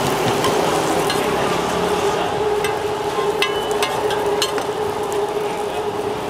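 Roti frying in oil on a flat street-vendor griddle: a steady sizzle with a steady hum underneath, and a few sharp clicks in the middle.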